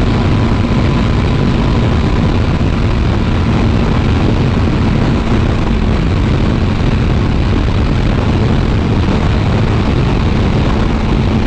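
Motorcycle riding at speed: a steady rush of wind on the helmet microphone with the engine's even drone underneath.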